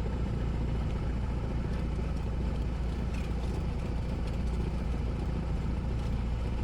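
Light single-engine Cessna's piston engine and propeller running steadily, a constant low drone heard inside the cockpit.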